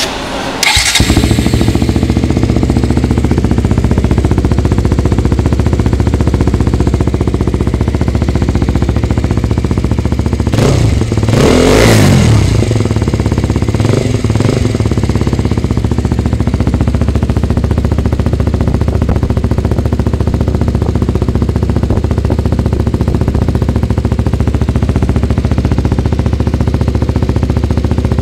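Single-cylinder motorcycle engine idling steadily, coming in abruptly about a second in. About halfway through it is revved once, pitch rising and falling, with a smaller blip soon after.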